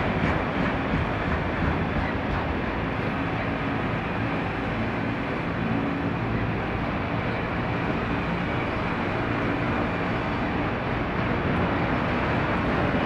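Freight train rolling past, a steady rumble of wheels on rails.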